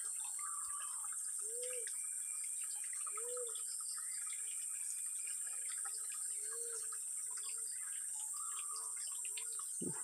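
A bird calling with soft, low, hooting coos, single notes at irregular gaps of one to three seconds. A steady high buzz of insects runs underneath.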